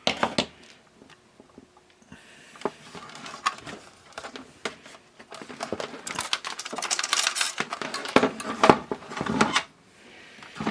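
Small sharp clicks, taps and scraping of hands and tools working on a plastic radio cassette player casing, thickest from about two seconds in, with a quieter gap near the end.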